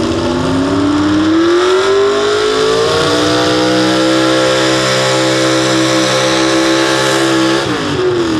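Pro Stock four-wheel-drive pulling truck's high-revving engine running hard under load. Its pitch climbs over the first three seconds, holds high and steady, then falls off sharply near the end.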